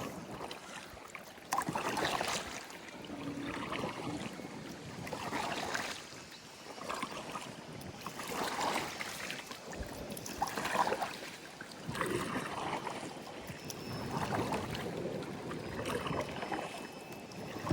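Kayak paddle strokes dipping and pulling through the water, a splashing swish about every couple of seconds, with wind buffeting the microphone.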